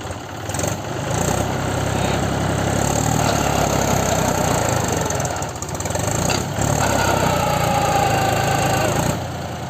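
Tractor diesel engine running hard, growing louder about a second in and easing back near the end.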